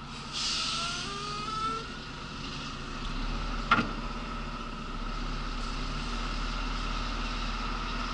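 Mercedes lorry's diesel engine idling steadily, heard from inside the cab, with a rising whine and hiss about half a second in that lasts over a second, and a sharp click just under four seconds in.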